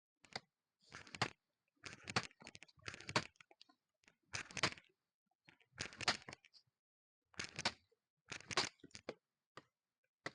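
A series of short crunching, crackling noises, about one a second.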